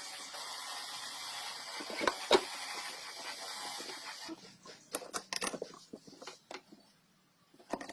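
Steady hiss with two sharp knocks about two seconds in. The hiss cuts off abruptly, and a run of light clicks and taps follows, typical of tools and engine parts being handled during a motorcycle overhaul.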